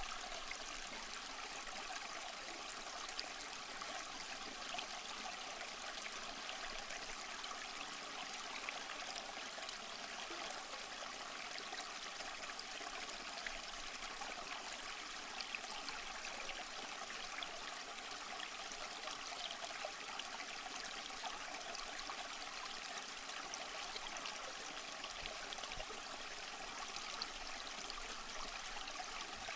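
A small stream flowing steadily over rocks, a continuous trickling and babbling of water.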